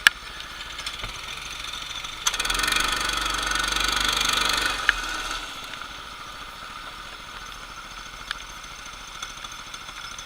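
Racing kart engines running. From about two seconds in to about five seconds in it gets louder, and its pitch falls as it fades back down.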